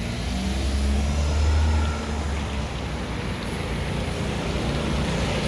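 Low engine rumble of a passing motor vehicle. It grows louder over the first second or two, then eases off, over a steady background hiss.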